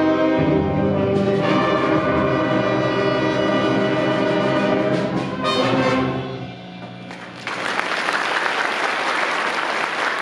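Middle school concert band playing the closing bars of a piece, brass to the fore with percussion hits, ending about six and a half seconds in. After a short pause the audience applauds.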